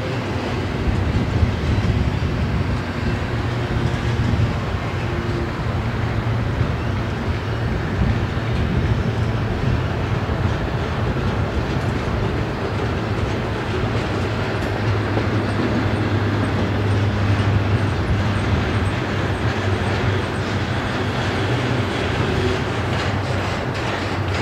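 Loaded double-stack container well cars rolling past at speed: a steady rumble of steel wheels on the rails with fast, continuous clicking.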